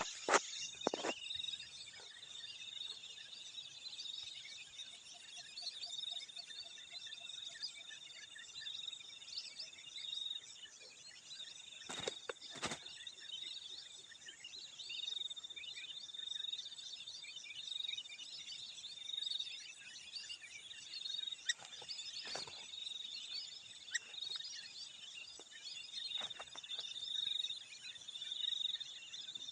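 Steady high trilling of insects with many small bird chirps over it, and a few sharp clicks scattered through.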